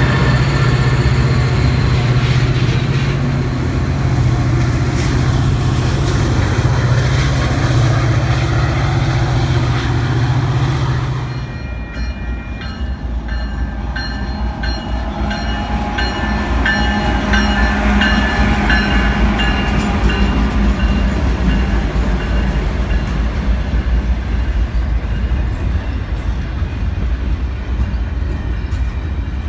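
A train passing at track side, with rail cars rolling over the rails. A steady low engine-like hum gives way abruptly, about twelve seconds in, to lighter rolling noise with scattered high tones.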